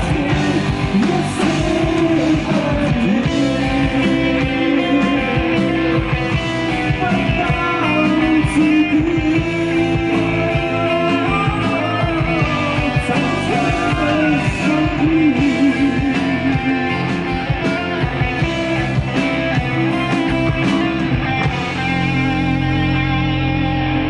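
Live rock band playing an instrumental passage: an electric guitar lead with bending, wavering notes over drums and bass. About 22 seconds in the band settles onto a sustained chord.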